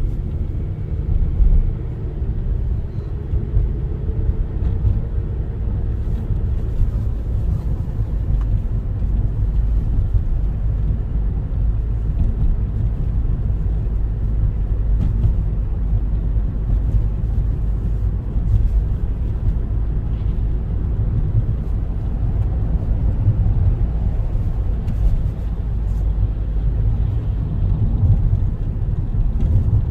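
Steady low rumble of a car on the move, its engine and tyre noise heard from inside the cabin, with a faint falling tone in the first few seconds.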